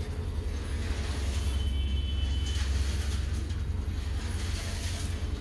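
Passenger train running past, a steady low rumble of the coaches on the track, with a faint, brief high squeal about a second and a half in.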